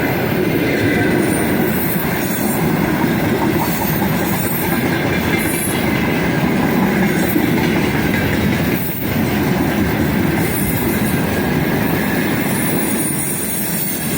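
Fast passenger train hauled by an electric locomotive rolling past at speed: a loud, steady rumble and clatter of wheels on the rails, with a brief dip about nine seconds in.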